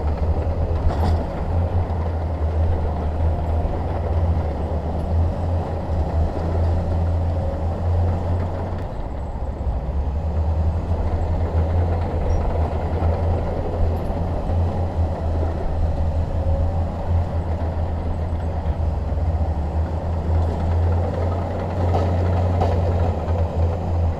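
Crawler bulldozer's diesel engine running steadily under a constant low drone, with a rumble of track and machinery noise. A few faint clanks come about a second in and again near the end.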